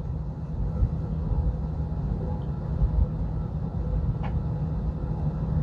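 Steady low rumble of an airliner's engines and running systems heard inside the passenger cabin, with a constant hum under it.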